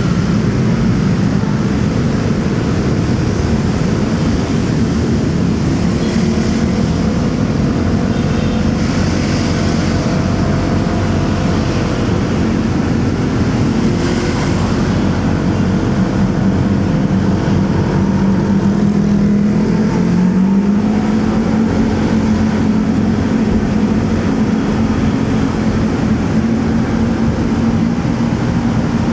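Motorcycle engine running on the move, with wind rumbling on the microphone and the sound of surrounding traffic. The engine note rises about two-thirds of the way through as it speeds up.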